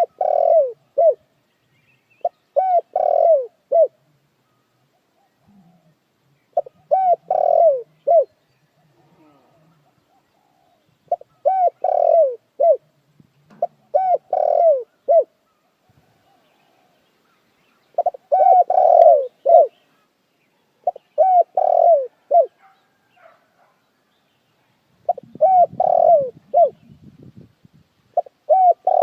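Spotted dove cooing: a phrase of several short, deep coos, repeated about every three to four seconds.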